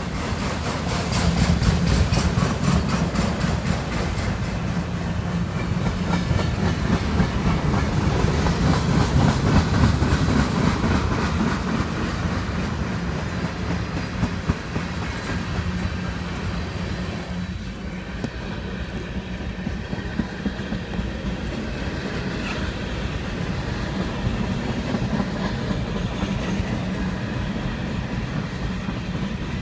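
Freight train cars (autoracks, covered hoppers and tank cars) rolling past close by, the wheels clicking over rail joints in a steady clickety-clack over a continuous rumble. The sound is loudest in the first third and eases slightly past the middle.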